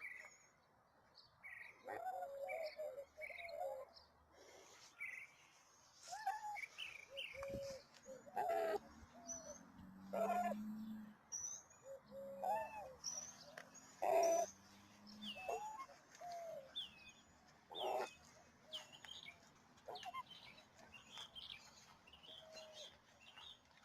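Birds calling: a string of short, soft low calls mixed with many quick, high chirps of small songbirds.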